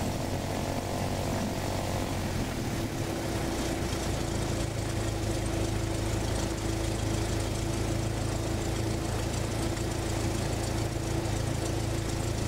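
Light aircraft's engine and propeller droning steadily in flight; the engine note rises slightly about two to three seconds in.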